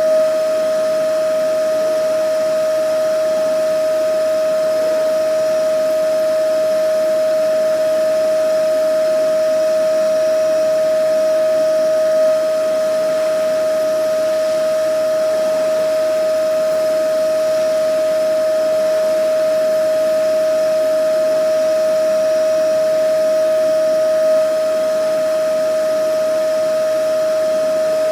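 Vacuum cleaner running continuously: a steady motor whine over an even rush of air, unchanging apart from a slight swell about every twelve seconds.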